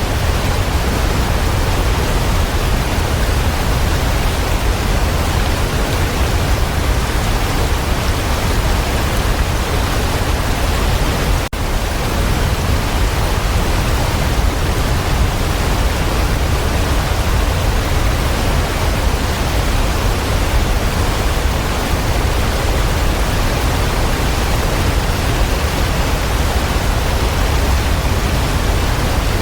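Waterfall: a steady, full rush of falling water, heaviest in the low end, with a brief dropout about eleven seconds in.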